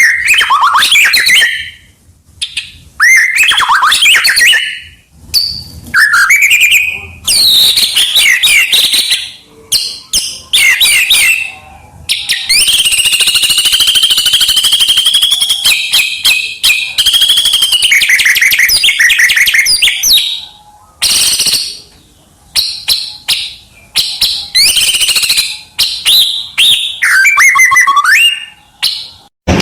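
White-rumped shama (murai batu) singing loudly and continuously: varied whistled phrases, quick trills and rattles separated by short pauses, with one long unbroken run of song in the middle.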